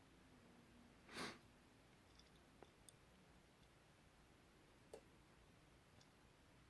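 Near silence: room tone, with one brief soft rustle about a second in and a few faint clicks.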